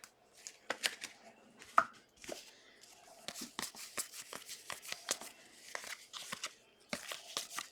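Trading cards and their plastic packaging being handled: an irregular run of light clicks, taps and crinkly rustles as the cards are slid, flipped and set down.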